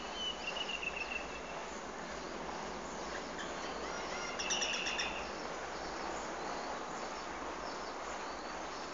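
Outdoor background noise with a few bird chirps: a thin whistled note near the start and a quick burst of high chirps about four and a half seconds in.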